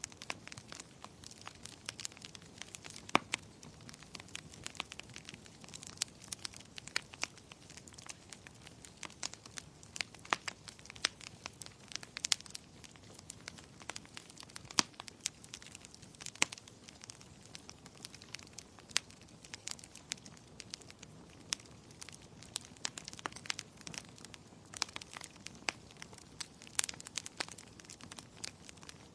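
Firewood burning in a fireplace: dense, irregular crackles and sharp pops over a soft hiss of flame, with a few louder snaps scattered throughout.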